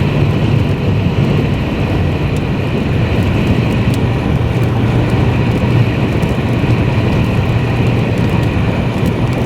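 Steady road and engine noise inside a moving vehicle's cabin, with a low, even rumble.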